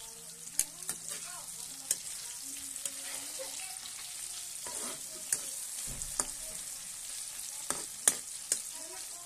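Sliced onion and tomato sizzling steadily in hot oil in a wok, stirred with a metal spatula that clicks and scrapes against the pan several times.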